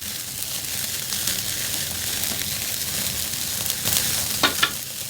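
Pork belly sizzling on a grill rack over a burning rice-straw fire, a steady dense crackle with a few louder pops about four seconds in.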